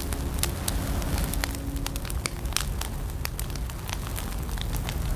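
Wood fire crackling, with irregular sharp pops over a steady low rumble. Faint held music notes fade out in the first two seconds.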